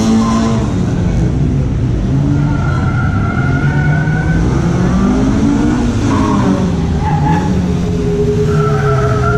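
A car's engine revving hard, its pitch climbing and dropping back several times as it is driven through a cone course, with tyre squeal at times.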